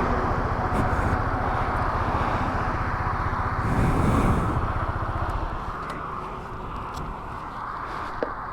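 Motorcycle riding, its engine running under wind noise on the microphone. The sound is louder around four seconds in, then eases off as the bike slows, with a single click near the end.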